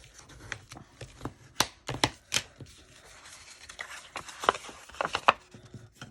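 Paper and craft tools handled on a tabletop: a scattering of sharp taps and knocks, about half a dozen, over a light rustle of paper.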